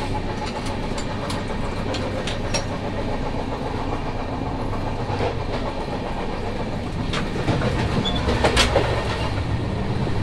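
Running noise inside an Indian Railways passenger coach on the move: a steady low rumble with wheels clicking over rail joints, and a louder clatter of knocks about eight seconds in.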